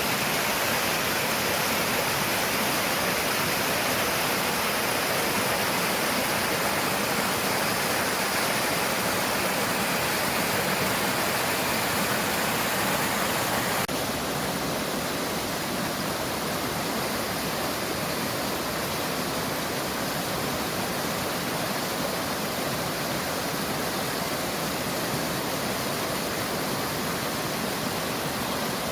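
Mountain stream water rushing steadily over rocks, a constant even wash; about halfway through it shifts to a slightly quieter, duller rush.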